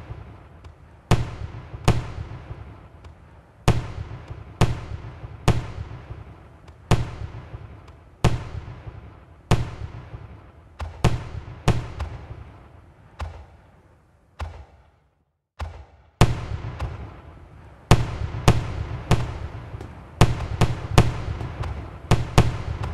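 Aerial firework shells bursting one after another, sharp bangs about once a second, each trailing off. The sound cuts out briefly about two-thirds of the way through, then the bangs come faster toward the end.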